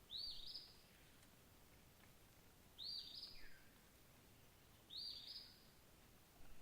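A single bird repeating a short high call of two quick arching notes about every two seconds, four times, over faint background hiss.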